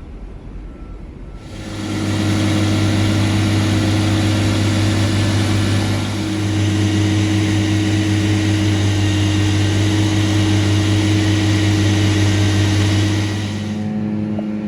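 Engine of a heavy construction machine running steadily close by. It grows much louder about a second and a half in and drops back near the end.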